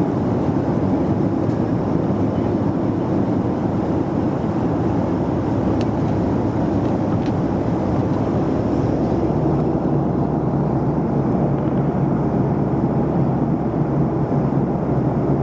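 Steady in-flight cabin noise of a Boeing 737-400 airliner, the even rush of its engines and airflow heard from inside the cabin.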